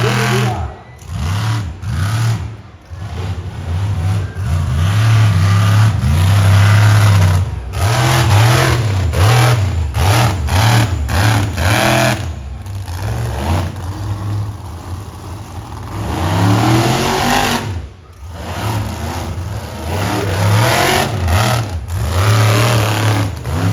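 Monster truck engine revving hard in repeated throttle surges, dropping off and coming back again and again, with one long rising rev about two-thirds of the way through.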